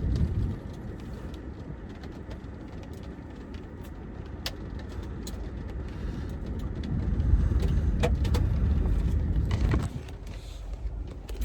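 Car cabin with the engine running: a steady low rumble that grows louder about seven seconds in and drops back near the end, with a few sharp ticks.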